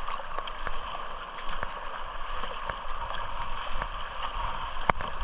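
Water splashing and dripping around a paddled kayak, with many small drip-like clicks and one sharper knock near the end.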